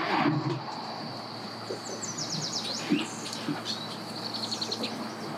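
Songbirds calling outdoors: a run of quick falling chirps a couple of seconds in and a fast trill of short notes near the end, over a steady high-pitched insect drone and a low steady hum.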